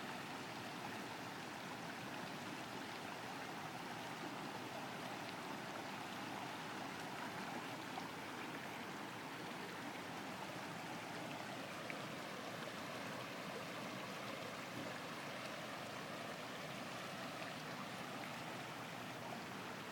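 The Brisbane River in flood, a faint, steady rush of moving water.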